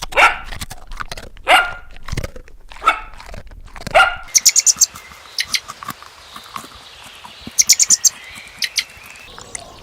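A dog barking four times, about a second and a half apart, followed by quick runs of high bird chirps.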